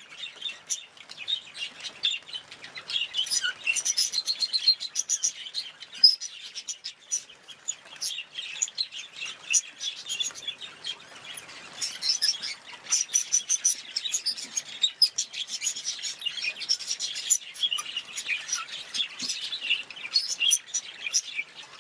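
Budgerigars chirping and chattering, a continuous stream of quick high chirps and warbles that cuts off suddenly at the end.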